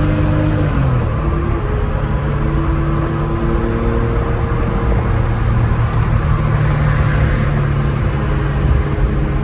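1970 Porsche 911S's air-cooled flat-six engine running under way, its pitch dropping about a second in and then holding fairly steady.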